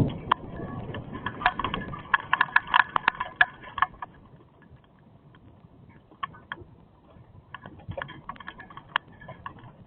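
Hailstones hitting a hard surface as separate sharp clicks, dense for about the first four seconds, then thinning to scattered hits, over a fading rain hiss.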